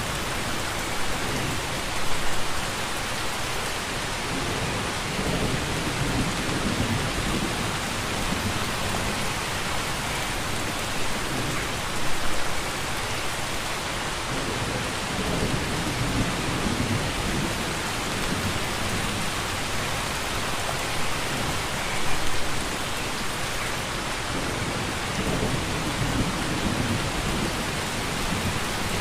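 Steady rainfall, a dense even hiss, with low rumbles of distant thunder swelling several times. Brief louder bursts come about every ten seconds.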